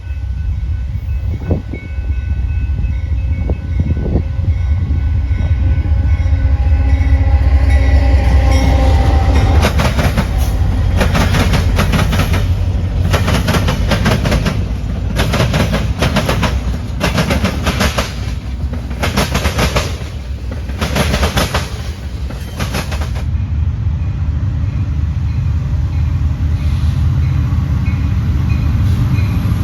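A train running by, with a steady low rumble. From about a third of the way in until about three quarters, a regular clatter sounds about once a second.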